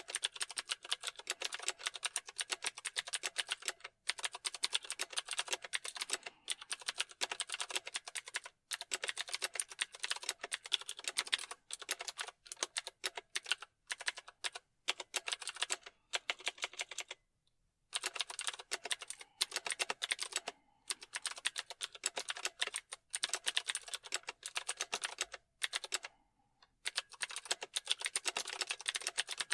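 Computer keyboard typing: fast runs of key clicks broken by short pauses, the longest pause about two-thirds of the way through.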